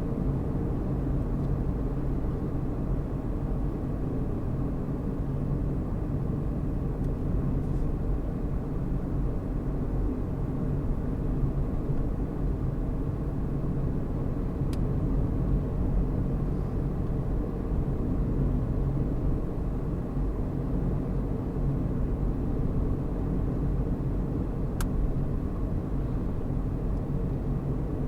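Car driving at a steady speed: a continuous low rumble of engine and road noise. Two faint brief ticks are heard midway and near the end.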